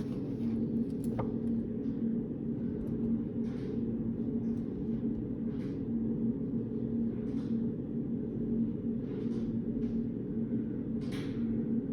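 Steady low hum of a reading room's ventilation, with a faint steady tone in it. Short soft scratchy or rustling sounds come every second or two over it, and there is a faint click about a second in.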